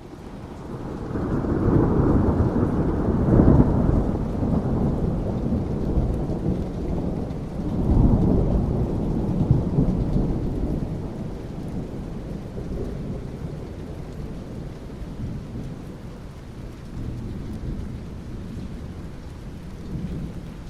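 Thunder rumbling over steady rain: the rumble swells over the first few seconds, surges again about eight seconds in, then slowly dies away, leaving the rain.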